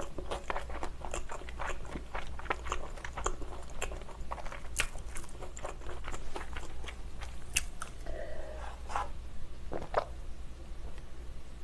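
Close-miked chewing of thin-crust pizza: dense crisp crunching clicks for the first few seconds, thinning out after. Near the end a few swallows as cola is drunk from a glass mug.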